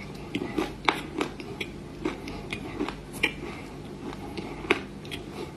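Crunchy baked clay being bitten and chewed, close-miked: irregular sharp crunches, a few a second, the loudest about a second in, past three seconds, and near the end.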